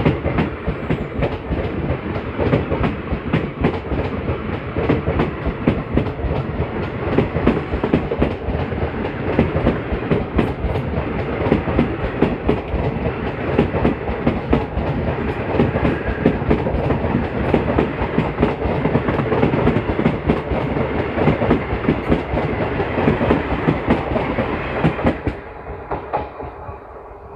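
Passenger train coaches running past close by on the adjacent track: a dense rush of wheel noise with rapid clatter over the rail joints. About 25 seconds in, the last coach goes by and the noise drops away sharply.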